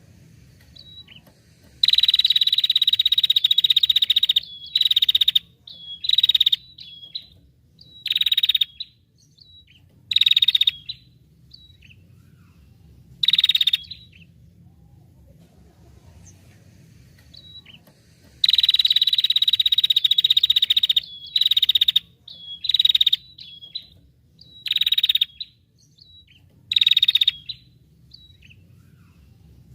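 A small songbird singing loud, buzzy, rattling trills. A long trill starts about two seconds in and lasts over two seconds, followed by shorter bursts with thin high chips between them. The same sequence repeats about halfway through.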